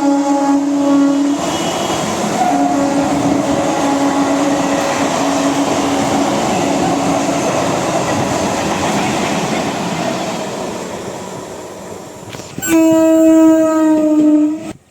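Indian Railways EMU local train sounding its horn and rumbling past on the rails, the running noise slowly dying away. Near the end a second long horn blast starts suddenly and cuts off abruptly.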